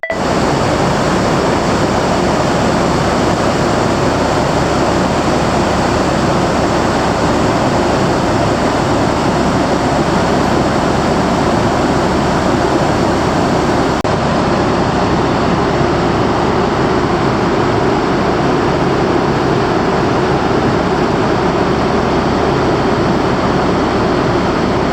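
Loud, steady rushing and rumbling noise with a low hum underneath, unchanging throughout, typical of running machinery and moving air aboard a vessel or vehicle under way.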